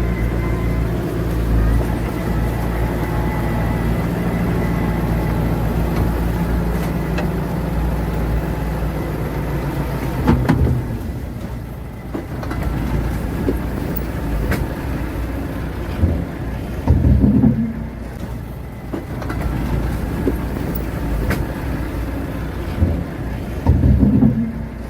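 Diesel engine of heavy earthmoving machinery running steadily, then surging in louder, uneven bursts of low rumble with sharp clanks about ten seconds in, again past the middle and near the end.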